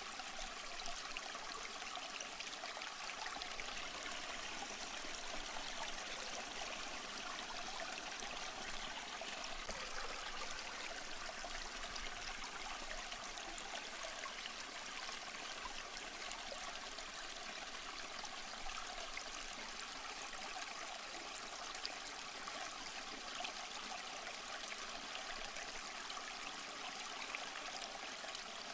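Small stream flowing steadily over rocks, an even trickling and splashing of water.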